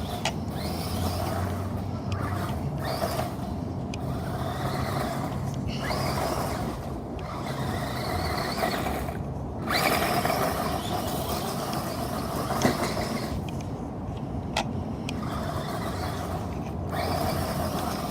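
Remote-control toy truck driving across the floor: its small electric motor whirring and the wheels rolling, in stretches broken by brief pauses.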